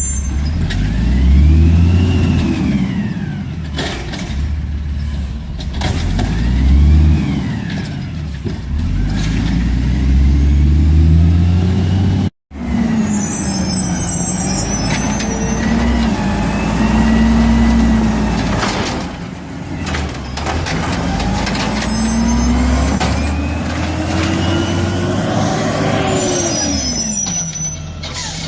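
Garbage truck engine revving up and down again and again, its pitch rising and falling every few seconds, with short air-brake hisses in between.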